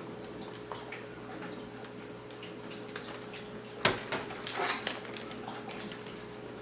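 A sharp click about four seconds in, then several light clicks and taps: small plastic laptop parts being handled as the screw covers are fitted to the screen bezel. A faint steady hum underlies it.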